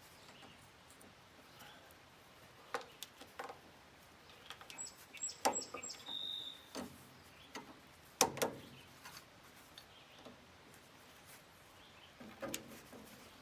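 Sparse light clicks and knocks of hand tools at work on an excavator's engine hoses, the loudest about five and eight seconds in. A few brief high bird chirps sound around five to six seconds in.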